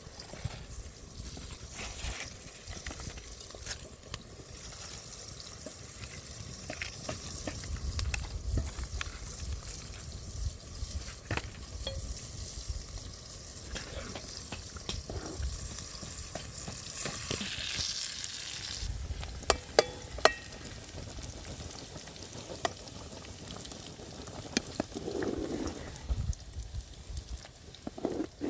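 Food frying in a pan and being stirred: a steady sizzle with scraping and scattered clicks of a utensil, and three sharp knocks about two-thirds of the way through.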